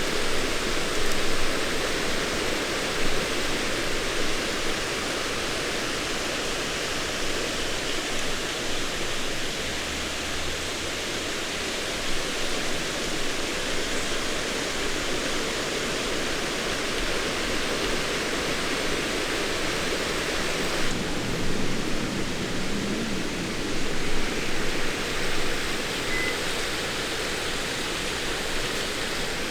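Steady wash of water noise with no distinct events, thinning a little in its upper hiss about two-thirds of the way through.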